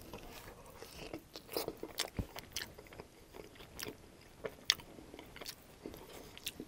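Close-miked biting and chewing of a barbecue pork rib topped with crispy fried onions: wet mouth sounds broken by scattered sharp crunches at an irregular pace.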